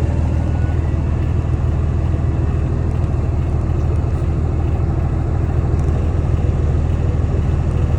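Ford Cargo 1932 truck tractor's diesel engine running steadily at an even speed, a constant low engine sound.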